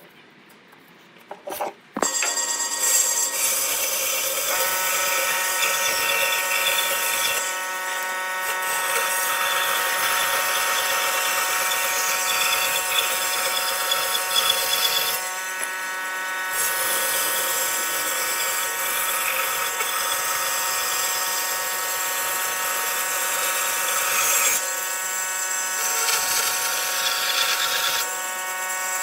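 A power tool starts with a click about two seconds in and then runs steadily on wood, its motor holding a constant whine over a rushing hiss, with brief changes in the sound several times.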